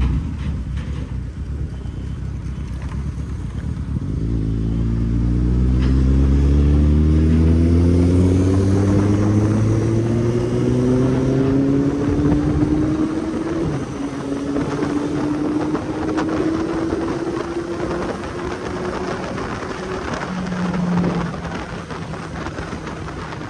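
Kawasaki Z800's inline-four engine pulling hard, its pitch climbing steadily as the bike accelerates, then settling into a steady cruise.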